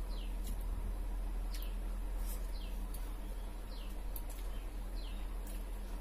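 A bird chirping: short notes sliding downward in pitch, repeated one or two times a second, over a steady low hum.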